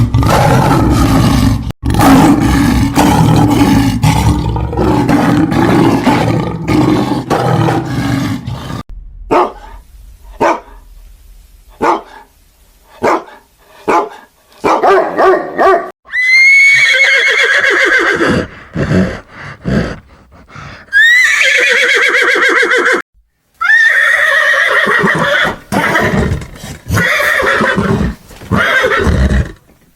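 A large animal growling or roaring low and rough for about the first eight seconds, then a few short scattered sounds. Past the midpoint a horse whinnies about three times, each call starting high and falling with a shaky tremble.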